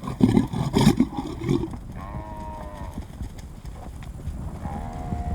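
Lions growling low and roughly over a kill for the first second and a half, then an African buffalo bawling: two drawn-out distress calls, one about two seconds in and another near the end.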